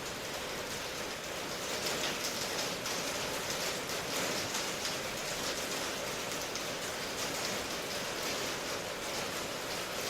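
Steady rain falling, an even hiss of drops on surfaces with fine patter and no break or change.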